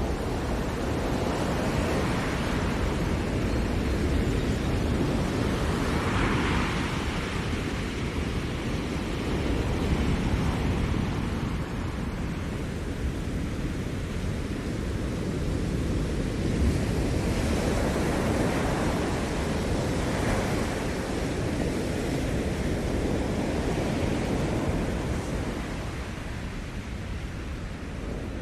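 Ocean surf washing onto the shore, a continuous rush with waves breaking and swelling every few seconds.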